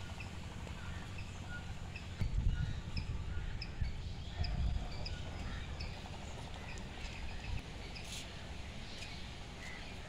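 Small birds chirping: many short, high chirps scattered through, over a steady low rumble that swells twice in the first half.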